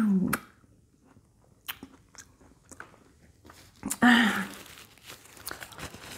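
Biting and chewing juicy orange segments close to the microphone: many small wet clicks and smacks. A short hummed vocal sound comes through the full mouth about four seconds in.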